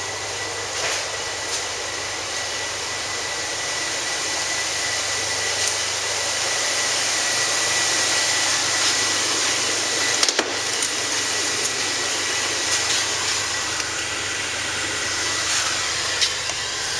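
2003 Chevrolet S-10 Blazer's 4.3-litre V6 running steadily at idle, its engine fan missing a broken-off blade. There is a single sharp click about ten seconds in.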